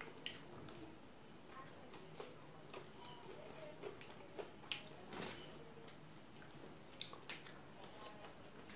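Quiet close-up chewing and wet mouth sounds of a person eating steamed momo dumplings, with scattered small clicks and taps from a fork on the plate. A few sharper taps stand out, the strongest a little under five seconds in and two more about seven seconds in.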